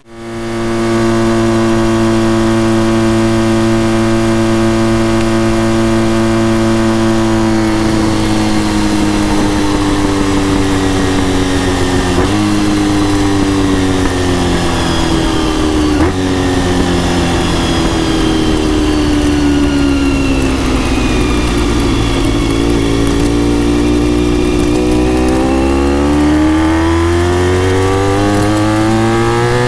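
Honda RVF400 NC35's V4 engine with gear-driven cams and a TSR slip-on silencer, heard on the move. It holds steady revs, then the pitch falls slowly for about fifteen seconds with a couple of brief jumps in pitch, then rises steadily near the end as the bike accelerates.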